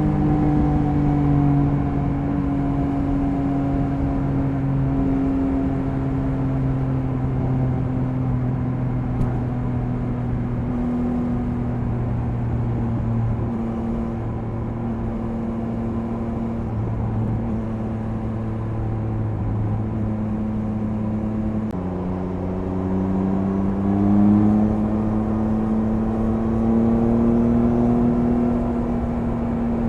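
Triumph Speed Triple 1050 RS inline three-cylinder engine under way at expressway speed. Its note falls slowly for about twenty seconds; then, after a sudden step down, it climbs again as the bike accelerates.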